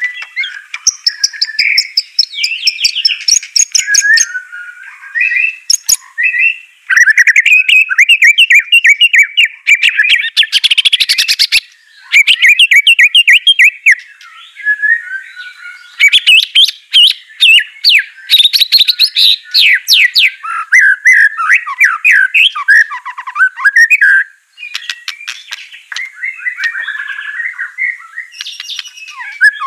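White-rumped shama (murai batu) in full, continuous song: varied whistled phrases alternating with fast trills of sharp, rapidly repeated notes, with hardly a break.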